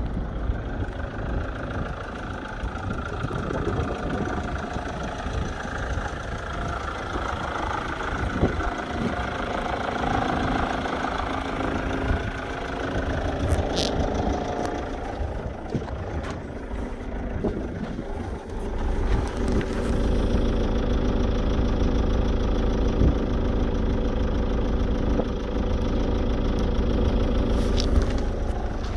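GM Daewoo Winstorm SUV engine running at idle. About two-thirds of the way through, the engine sound becomes louder and steadier, with a constant low hum.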